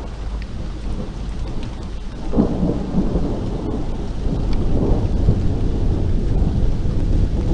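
Steady rain with a long rolling rumble of thunder that swells about two seconds in and stays loud.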